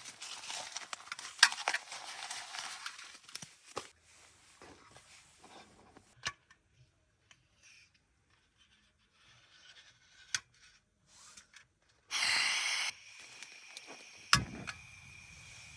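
Rustling and crinkling handling noise with sharp clicks, fading to scattered small clicks, then a brief loud hiss near the end followed by a single sharp click.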